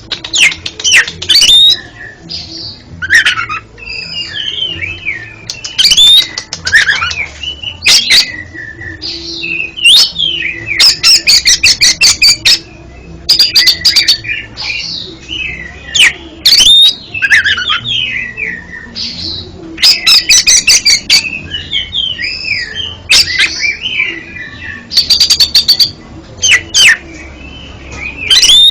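Oriental magpie-robin (kacer) singing: a loud, varied song of gliding whistled notes broken by fast rattling runs of repeated sharp notes, phrase after phrase with short pauses between.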